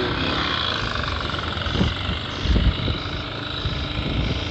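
Wind gusting against the microphone: a continuous rush with low rumbling buffets, the strongest about halfway through.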